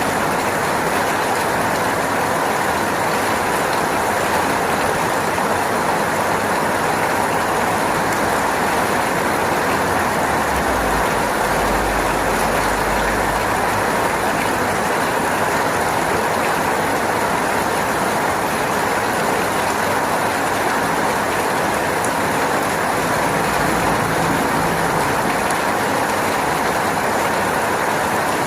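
Steady rain falling, an even hiss that does not change in level, with a low rumble swelling in for a few seconds about ten seconds in and again briefly near the end.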